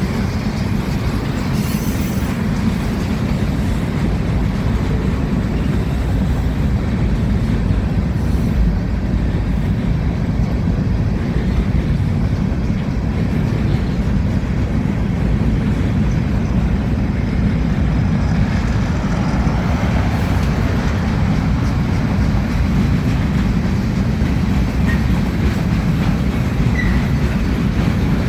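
Freight cars of a manifest train rolling past, a steady, deep noise of steel wheels on rail.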